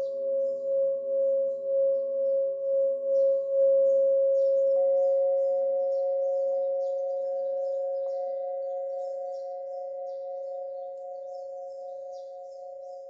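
Tibetan singing bowl sounding a steady held tone that wavers about twice a second and swells over the first few seconds, as when its rim is circled with a mallet. About five seconds in, a second, higher tone joins after a light tap, and both ring on, slowly fading. Small birds twitter and chirp throughout.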